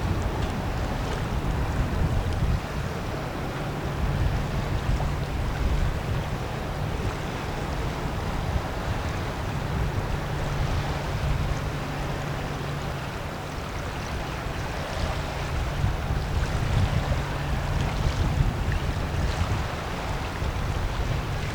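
A 140-ft Coast Guard icebreaking tug's diesel engines giving a steady low hum as it passes, under wind buffeting the microphone and the wash of water.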